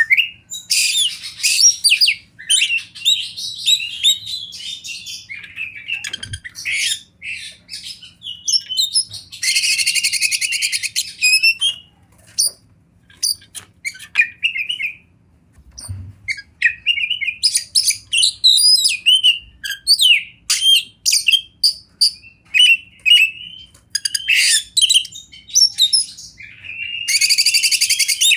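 Oriental magpie-robin singing a loud, varied song of quick whistled phrases, broken twice by long harsh buzzing rattles.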